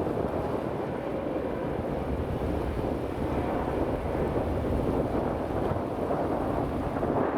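Wind buffeting the microphone: a steady, low rushing noise that wavers slightly in strength.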